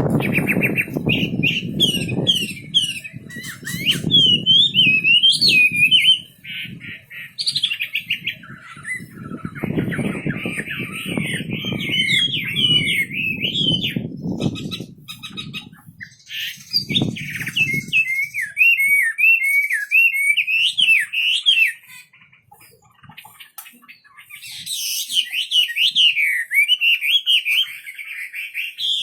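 A wambi songbird singing in long, rapid warbling phrases with a short pause past the middle. Low noise sits under the song through the first half.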